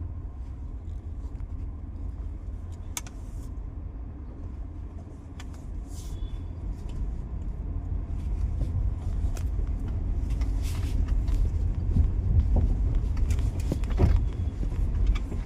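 Car driving on a smooth road, with steady road and drivetrain rumble and scattered rattling clicks from the Hyundai's steering column. The clicks come more often and louder in the second half. The rattle, like pellets rattling together, is the sign of a worn reduction gear in the electric power steering column: a worn worm shaft and bearing play.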